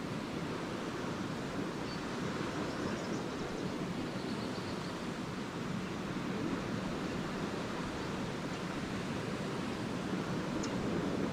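Lake waves breaking and washing ashore in a steady surf, with a few faint, brief swallow chirps now and then.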